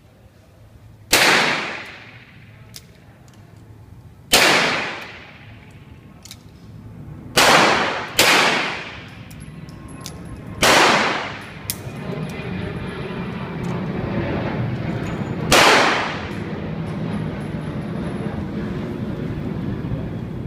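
.38-calibre revolver firing six shots at uneven intervals, two of them close together about a third of the way in, each followed by a short ringing decay. A steady low rumbling noise rises in the background from about halfway.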